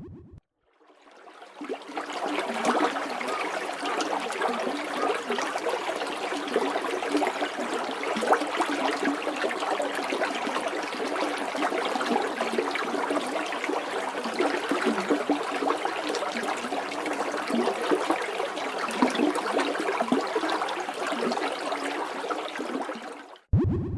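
Waterfall: water rushing and splashing in a steady noise. It fades in during the first second or two and stops shortly before the end.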